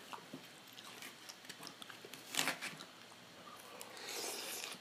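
A person chewing a mouthful of Caesar salad: quiet crunching and small mouth clicks, with one louder crunch about halfway through.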